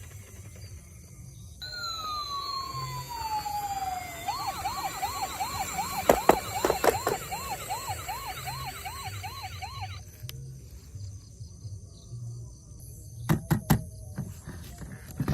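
Electronic siren of a toy emergency vehicle: a tone that starts abruptly and slides down, then switches to a fast up-and-down wail before cutting off suddenly. A few sharp clicks of plastic handling come during and after it.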